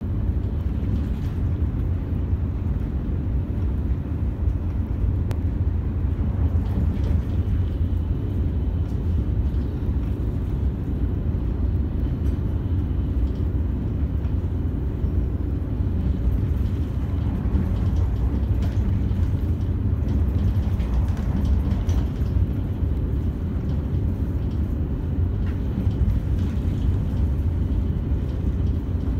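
Steady low rumble inside the passenger cabin of a KTX high-speed train running at high speed.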